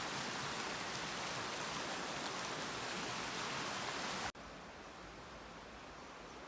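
Heavy rain falling steadily in a dense hiss. About four seconds in it cuts off suddenly, leaving a quieter, duller hiss.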